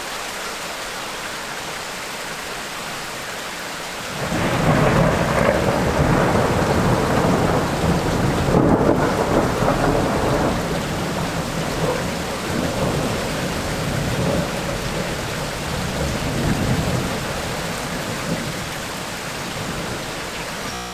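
Tropical rainstorm: steady rain hissing, then thunder breaking in suddenly about four seconds in and rumbling loudly for several seconds before rolling away and fading out over the next several seconds.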